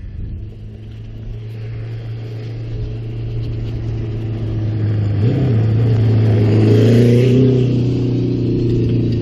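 Maico 700 two-stroke single-cylinder dirt bike engine pulling under throttle on a trail ride, getting steadily louder, with a quick rise in revs just past halfway.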